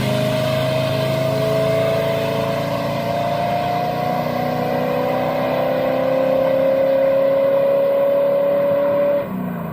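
Car doing a burnout: tyres squealing in one long steady screech that wavers slowly in pitch, over the engine held at high revs. It stops about nine seconds in.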